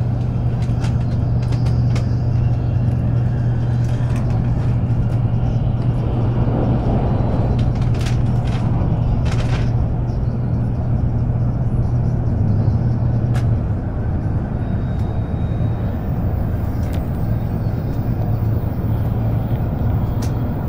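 Cabin noise of an N700-series Shinkansen running at speed: a steady low rumble with a constant hum and a few faint clicks.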